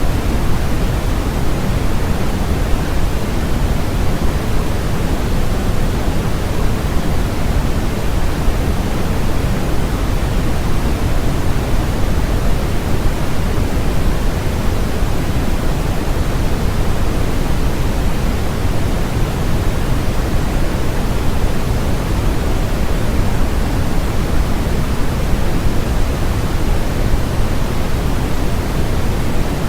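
Steady generated noise, heavier in the low end and thinning toward the treble, with no change or break.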